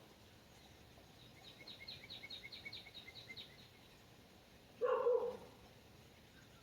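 A bird trills in a run of about a dozen quick chirps, then a dog gives a single bark about five seconds in.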